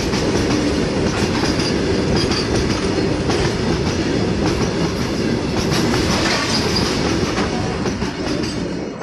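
Freight train wagons passing at speed, with a steady rumble and repeated clicks of the wheels over rail joints. The sound begins to fade near the end.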